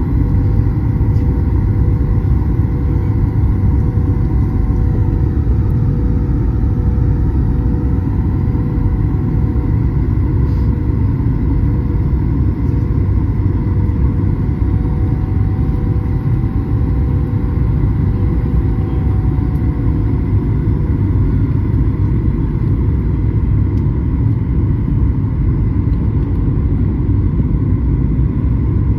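Flydubai airliner cabin noise during the approach: a steady, loud low rumble of engines and airflow with a constant hum on top, and a fainter higher tone that fades out about two-thirds of the way through.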